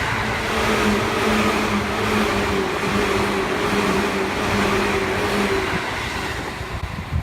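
Seibu 2000 series electric commuter train running by: a loud rumble of wheels on the rails with a steady two-tone motor hum, which stops about five and a half seconds in before the noise eases off.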